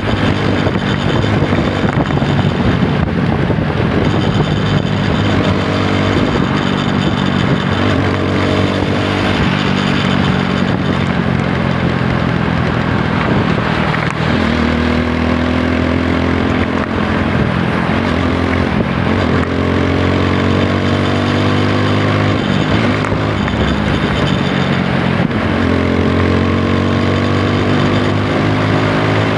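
TVS Apache 160 4V's single-cylinder engine accelerating through the gears while riding. The pitch climbs and drops back at each upshift, about four times, over steady wind noise.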